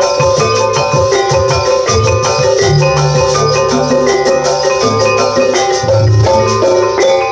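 Javanese gamelan music for a jaranan performance: metallophones play quick, dense struck notes over a steady drum beat.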